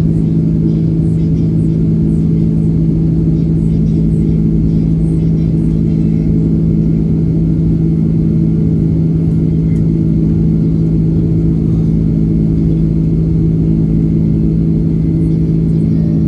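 Airbus A330-300 cabin noise in flight: a steady, unchanging drone of engines and airflow with a strong low hum.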